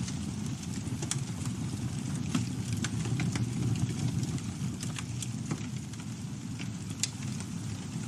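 Campfire burning: a steady low rumble of the flames with irregular crackles and pops of burning wood, a few of them sharper snaps.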